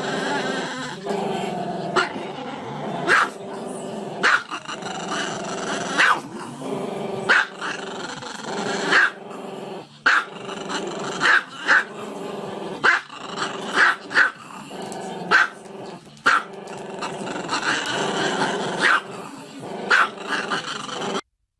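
A dog growling continuously, broken by sharp barks about once a second. The sound cuts off abruptly near the end.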